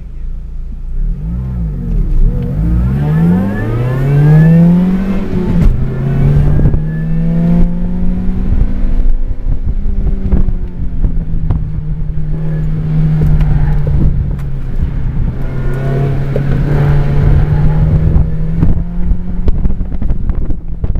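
Ford SVT Focus's 2.0-litre four-cylinder engine heard from inside the cabin, revving hard off the start with its pitch climbing in several rising sweeps over the first few seconds, then running at fairly steady high revs with small rises and dips as the car is driven through the cones. Low buffeting and scattered short knocks run underneath.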